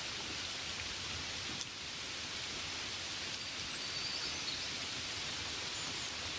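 Gentle rain falling steadily: an even hiss.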